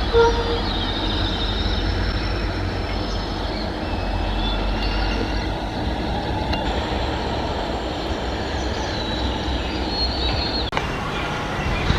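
Passenger train running past on the rails: a steady rumble of wheels on track with thin, high-pitched wheel squeals drifting in and out over it.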